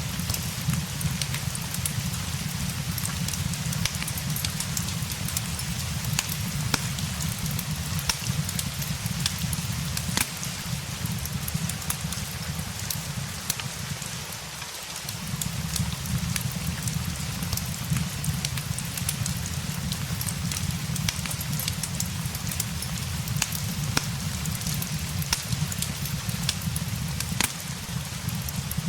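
Steady rain layered with a crackling wood fire: an even hiss of rain over a low rumble, with frequent small pops and crackles scattered throughout. The low rumble dips briefly about halfway through.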